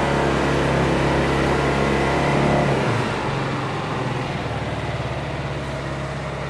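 2014 Yamaha Xmax 250 scooter's single-cylinder four-stroke engine running steadily, its sound dropping a little about three seconds in and settling to a lower, even run.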